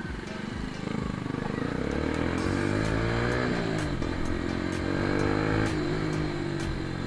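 Yamaha FZ-S V3's single-cylinder engine pulling away and accelerating: its pitch rises, drops at a gear change about three and a half seconds in, climbs again, then eases off near the end.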